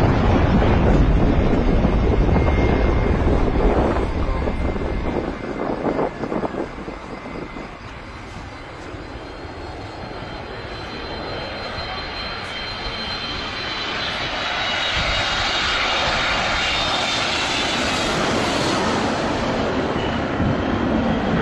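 Airplane engines. A loud low rumble at first falls away about five seconds in, then a high-pitched engine whine builds and grows louder.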